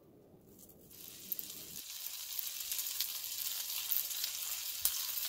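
Egg-coated ground-beef patties (Korean meat jeon) sizzling in oil in a frying pan, a steady hiss with small pops. It starts about a second in and grows a little louder.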